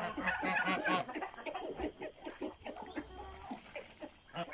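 A farmyard poultry flock calling: many short, overlapping calls, densest and loudest in the first second, then continuing more sparsely.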